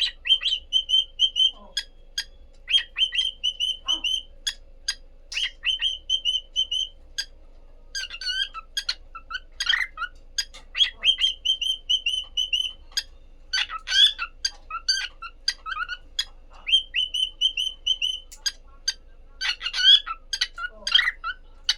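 Cockatiels chirping, with several runs of quick repeated high notes and other chirps and sharp clicks in between.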